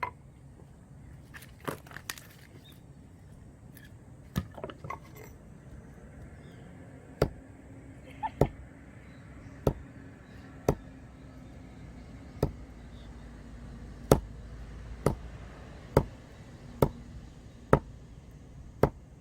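Axe blows splitting firewood: a series of sharp knocks on wood, a few scattered at first, then about one a second from roughly seven seconds in.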